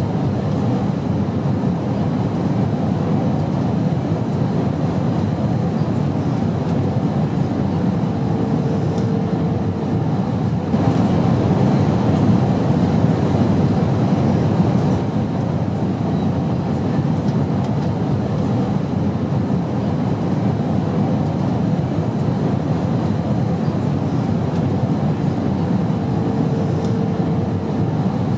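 Airplane noise: a steady, low rumble that swells slightly for a few seconds partway through, with a faint brief hum twice.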